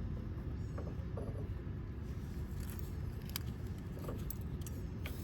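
A few scattered light metallic clicks and clinks as the belt pulley shims, nut and tools are handled during a fan belt adjustment, over a steady low rumble.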